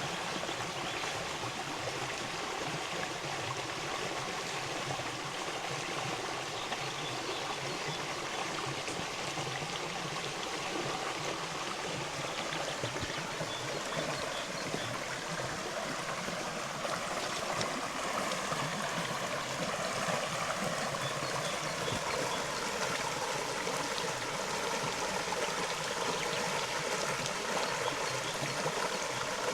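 River water flowing steadily, a little louder from about halfway through.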